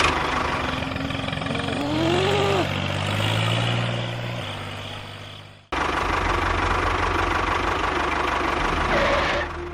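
Engine running steadily at idle, with a brief rising-and-falling tone about two seconds in. It cuts off abruptly a little past halfway and a similar drone starts again at once.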